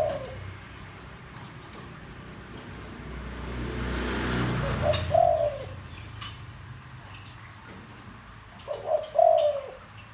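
Spotted dove cooing in a deep voice: short phrases a few seconds apart, one just at the start, one about five seconds in and a two-part phrase near the end. A low rumble swells and fades in the middle, and a few faint high chirps sound between the coos.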